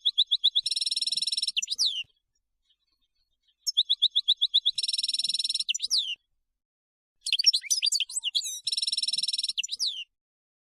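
European goldfinch singing: three near-identical song phrases, each a run of quick clear notes leading into a buzzy trill and ending in a few falling notes, with short silent gaps between them.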